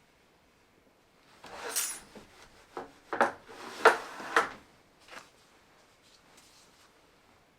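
A wooden handloom being worked: a rattling, sliding scrape, then a handful of wooden knocks and rubs.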